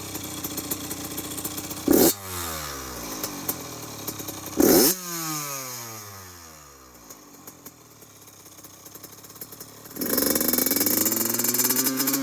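Yamaha YZ85 two-stroke single-cylinder dirt bike engine idling and being revved. It is blipped sharply twice, about 2 and 4.5 seconds in, and each time the revs sink slowly back down over a few seconds. From about ten seconds in it is held at higher revs. The owner is checking whether the carburetor runs rich or lean.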